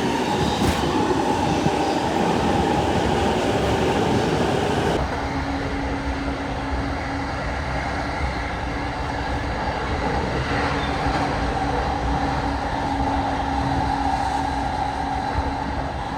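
Tsurumi Line electric train running, a steady rail rumble with a steady hum in it. The sound changes abruptly about five seconds in, the hiss dropping away and a lower steady tone coming in.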